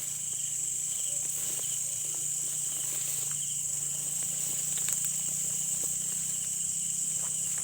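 Night chorus of crickets and other insects: a steady high trill over a lower, pulsing trill, with a faint low hum beneath.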